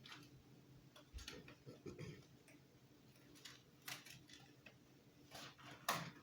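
Faint, scattered clicks and taps of small parts and packaging being handled, over a low steady hum.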